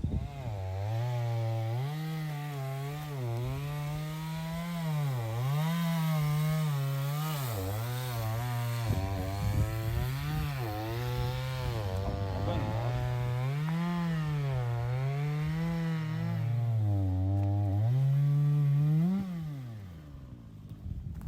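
Chainsaw cutting firewood, its engine pitch rising and falling over and over as the chain bites into the wood. It winds down and stops near the end.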